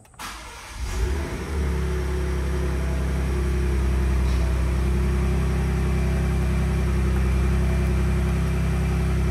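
Ford Ranger Raptor's 3.0-litre twin-turbo V6 starting: it comes in just after the start, builds over the first second or so, then settles into a steady idle.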